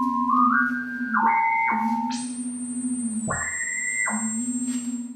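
Electronic synthesizer tones: a low drone that wavers in pitch, with higher pure tones entering and stepping upward and a thin high whistle joining about two seconds in. The sound cuts off suddenly at the end.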